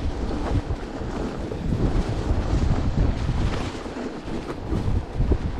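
Strong gusting wind buffeting the microphone in a blizzard, a rough rumble that swells and dips from gust to gust.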